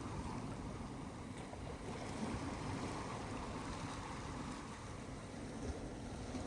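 Ocean surf breaking and washing on a beach in a steady, gently swelling rush, with low wind rumble on the microphone.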